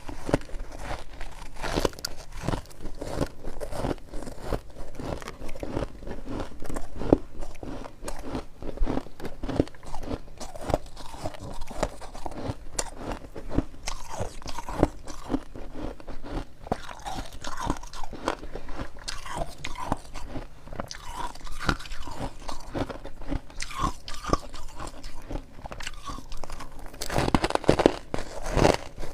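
Dense freezer frost being bitten and chewed close to the mic: a steady run of irregular crunches, with a louder flurry of crunching near the end.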